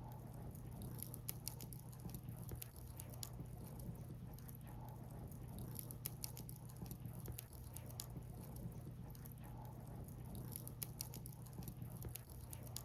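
Wood fire crackling: irregular small sharp pops and snaps of burning firewood over a low steady hum.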